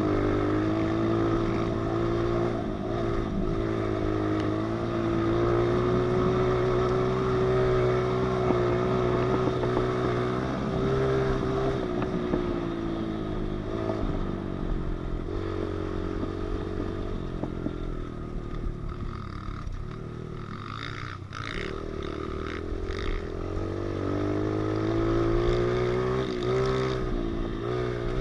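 Pit bike engine running under throttle while being ridden, its pitch rising and falling as the rider accelerates and eases off. About two-thirds of the way through the engine drops back for a few seconds, with a few sharp clicks and rattles, then picks up again near the end.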